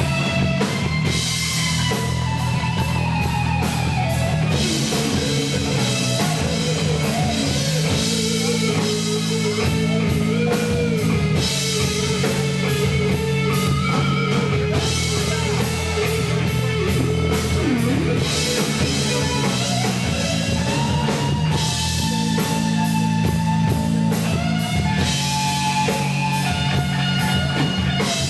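Live rock band playing loud distorted electric guitar with bass and drum kit, recorded with poor, overloaded sound quality.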